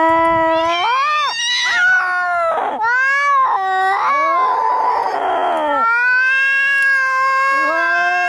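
Angry cats caterwauling in a fight: long, drawn-out yowls that bend up and down in pitch, with a harsher, noisier cry around the middle.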